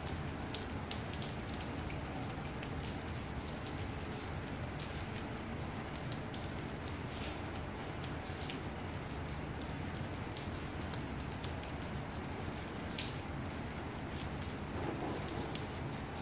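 Light rain: scattered raindrops ticking irregularly on a surface close to the microphone, several a second, over a steady low background noise.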